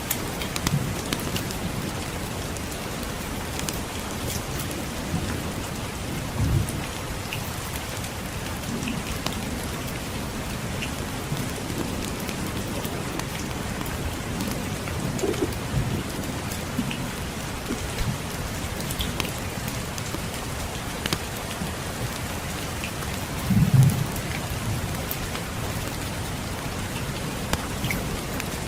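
Steady rain falling, with scattered light crackles from a wood fire and two low rumbles of distant thunder, one about six seconds in and a louder one near the end.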